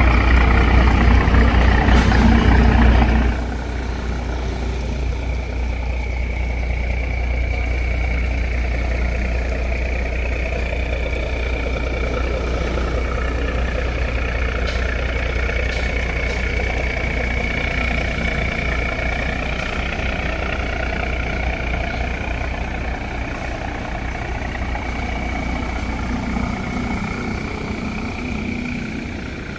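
A boat's engine running steadily, louder and deeper for the first three seconds, then settling to a lower, even run.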